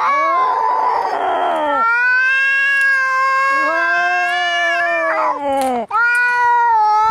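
Cats yowling and caterwauling in a fight, long drawn-out wails that waver in pitch, with a hissing, spitting stretch about half a second in. The yowling breaks off briefly near the end and starts again.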